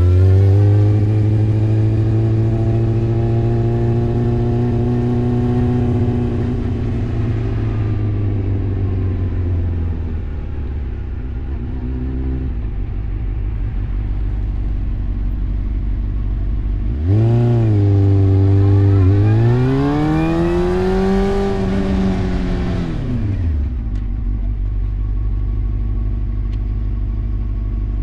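Motorcycle engine pulling away and revving up, then easing off to idle. About seventeen seconds in it accelerates again, shifts up once, climbs and drops quickly back to idle as the bike is braked for a quick stop, with wind rushing on the microphone during each run.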